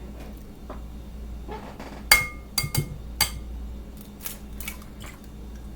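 A utensil clinks sharply against a dish about four times in quick succession, each strike ringing briefly, followed by a few lighter kitchen knocks.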